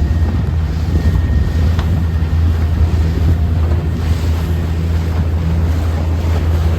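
Motorboat engine running steadily under way, a low even drone, with wind buffeting the microphone.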